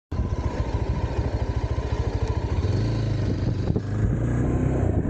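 Yezdi Adventure's single-cylinder motorcycle engine running with evenly spaced low firing pulses, then picking up revs about two and a half seconds in.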